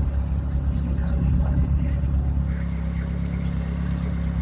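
A motor boat's engine running steadily with an even low hum.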